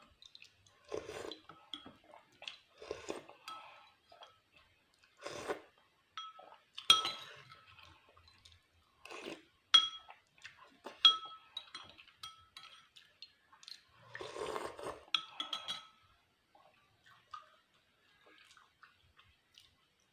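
Cutlery clinking against dishware while eating, a dozen or so strikes that each ring briefly, loudest about seven and ten seconds in, with softer eating sounds between them and fewer sounds near the end.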